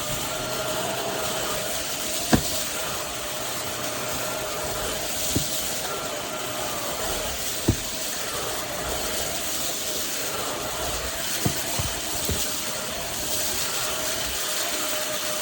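PRETTYCARELIFE cordless stick vacuum cleaner running steadily with a constant whine, with several sharp clicks scattered through.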